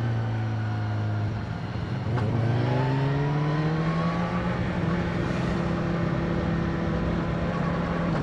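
BMW S1000R inline-four engine heard onboard while riding: running at steady revs, easing off briefly about a second and a half in, then the revs climbing under acceleration for a couple of seconds before holding steady.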